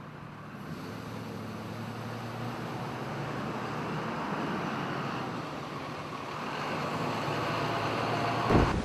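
Road traffic: vehicles passing close by, the noise swelling as they go by, easing, then swelling again. Near the end, wind buffets the microphone.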